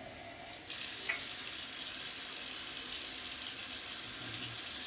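Kitchen faucet running water into a clear jar to fill it halfway; the stream starts less than a second in and runs steadily.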